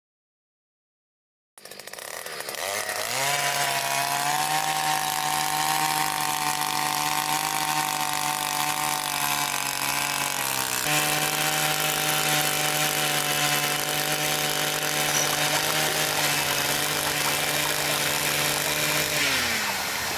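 A mini tractor's small motor starts about two seconds in, rising in pitch as it spins up, then runs at a steady pitch and winds down near the end.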